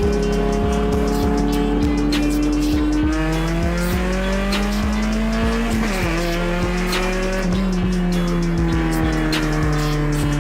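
Car engine held at high revs, its pitch drifting slowly up and down and dropping suddenly about six seconds in, with music and a steady beat playing underneath.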